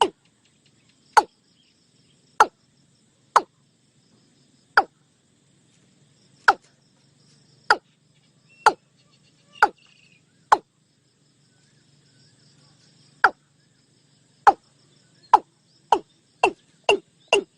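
Watercock calling: a series of short, sharp knocking notes, each dropping quickly in pitch. They come about one a second, break off for a couple of seconds, then start again and quicken towards the end.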